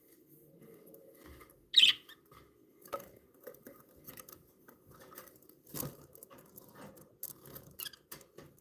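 Pet budgerigars moving about their cage: a scatter of light clicks, taps and scratches, with one short, sharp louder sound about two seconds in.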